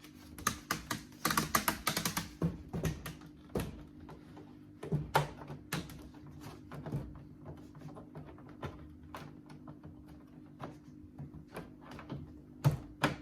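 Duct tape being pulled off the roll in a dense run of crackling about a second in, then scattered clicks and taps as the tape is handled and pressed down to seal the fitting against air leaks.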